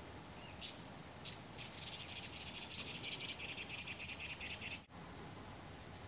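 'I'iwi calling: a few short high notes, then a harsh, rapidly pulsing buzzy rattle lasting about three seconds that cuts off suddenly.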